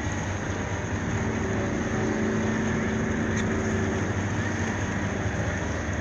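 Boat engine running steadily with a low drone, a faint steady tone coming up in the middle and fading again.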